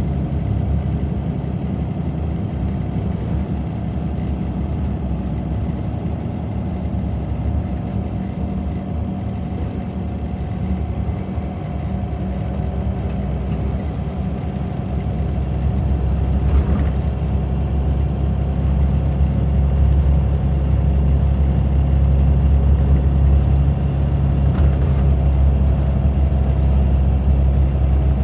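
Scania DC9 five-cylinder diesel engine of a Scania K94 bus running steadily. About halfway through it grows louder and deeper as it pulls harder.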